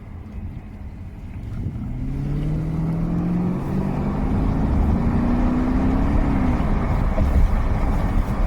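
Audi 4.2 V8 accelerating, the engine note climbing. There is a shift about three and a half seconds in, then a second climb that eases off near the end, over steady road noise.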